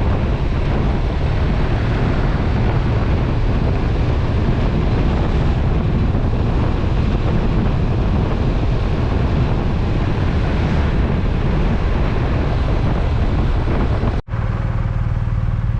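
Wind rushing loudly over the microphone of a BMW R1250RT boxer-twin motorcycle being ridden at speed, with engine and road noise beneath. The sound cuts out briefly about fourteen seconds in, and a steadier engine hum follows.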